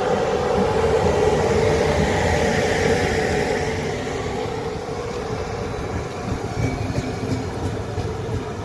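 Electric locomotive and its passenger coaches rolling past. The sound is loudest in the first few seconds as the locomotive goes by, then eases into the steady run of the coaches' wheels on the rails, with a few light wheel clicks near the end.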